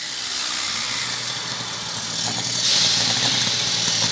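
Light limited super stock pulling tractor's engine running steadily, growing louder about two and a half seconds in.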